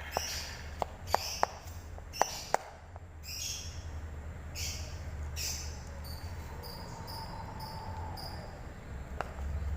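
White-eye (pleci) songbird chirping and calling in short high notes, with a quick run of repeated notes from about six seconds in, over a steady low hum.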